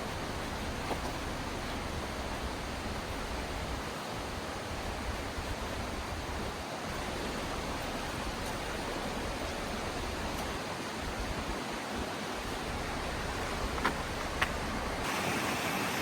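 Steady rushing of a valley stream, an even hiss of flowing water, with a couple of faint clicks near the end.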